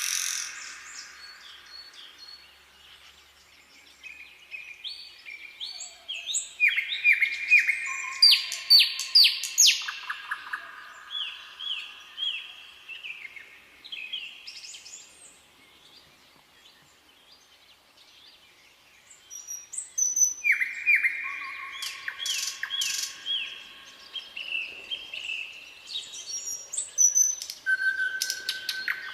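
Songbirds singing in phrases of quick, repeated short chirps, with a lull about halfway through.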